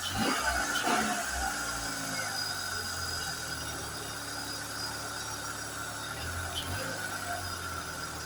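2003 Hyundai Accent GLS four-cylinder engine revved twice in quick succession in the first second, then settling back to a steady idle.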